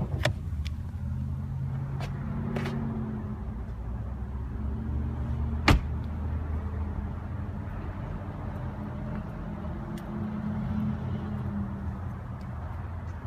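2015 Mercedes-Benz S63 AMG's 5.5-liter bi-turbo V8 idling steadily, with a few light clicks in the first seconds and one sharp click a little before six seconds in, which fit the hood being released and opened.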